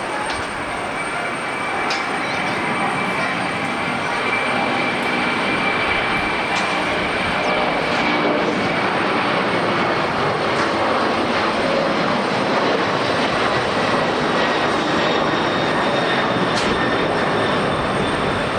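Jet airliner engines: a dense rushing noise with a thin high whine, growing louder about two seconds in and then holding steady.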